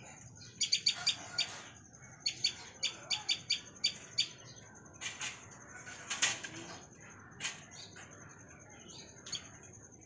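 Small birds chirping: quick runs of short, high, sharp chirps in clusters for the first six or so seconds, then only a few single chirps.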